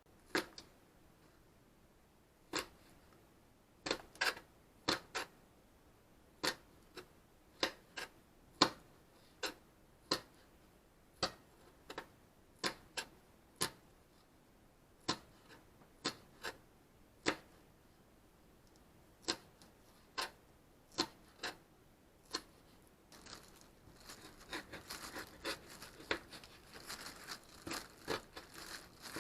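A series of sharp single knocks or clicks, roughly one a second with a few close pairs, then a dense crackling that builds from about three-quarters of the way through.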